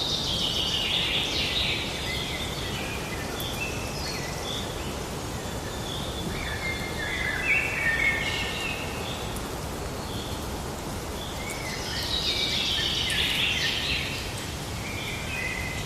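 Forest ambience: several birds calling and singing over a steady background hiss, with bursts of song near the start and again near the end.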